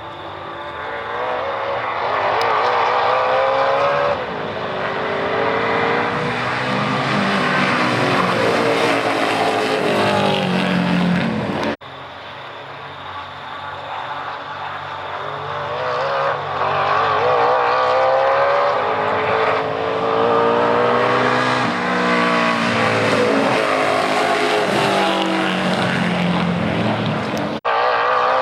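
Mercedes-Benz 500SEC race car's V8 engine running hard under acceleration, its pitch repeatedly climbing and then dropping back as it shifts gears. The sound cuts off abruptly twice, about twelve seconds in and near the end.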